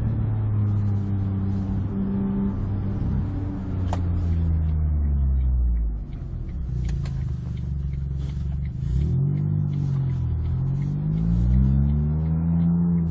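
Smart 84 hp turbocharged three-cylinder engine running through an aftermarket XSP exhaust, holding a steady note at first, then revved in several blips that rise and fall in pitch during the second half.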